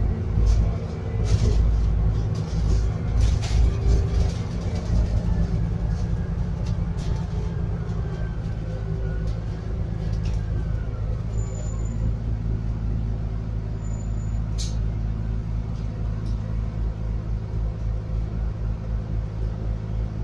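Scania N280UD biogas double-decker bus heard from inside, its engine running with a steady low drone. Interior panels rattle and knock during the first few seconds. A whine slowly falls in pitch around the middle, and two short high beeps come later.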